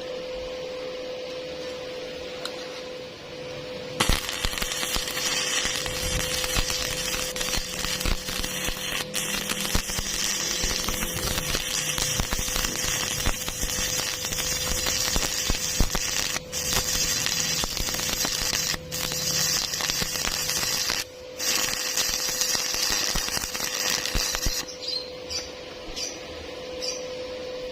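Electric arc welding crackling steadily for about twenty seconds, starting suddenly a few seconds in, with three brief breaks near the middle. A steady hum runs underneath, and a few clicks follow near the end.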